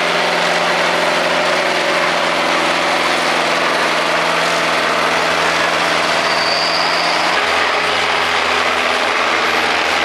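IHC 744 AS tractor engine running at steady, unchanging revs.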